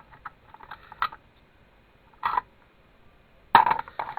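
Freshly cast lead fishing weights being handled and knocked together: a few small clicks, then a louder knock about two seconds in and two more close together near the end.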